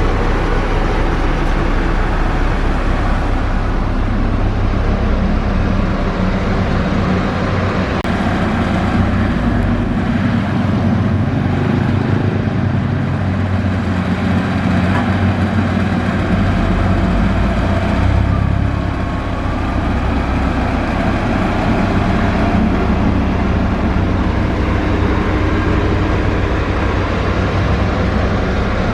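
Heavy diesel construction machinery running steadily, a low engine rumble whose pitch shifts now and then as the machine works.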